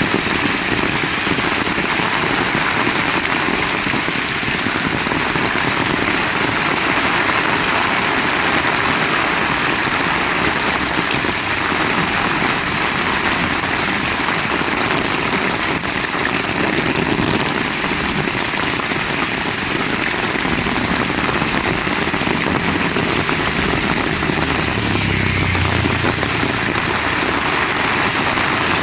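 Heavy rain falling steadily, a dense even patter. A low rumble joins briefly near the end.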